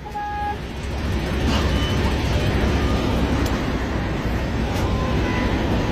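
Steady low vehicle rumble with a rushing hiss over it, with a brief steady tone right at the start.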